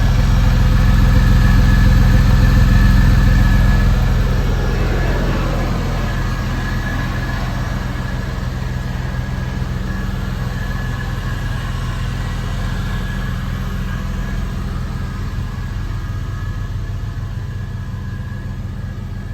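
1999 Porsche 911 Carrera's 3.4-litre flat-six idling steadily through a B&B aftermarket exhaust. It is louder for the first few seconds, then gradually fades.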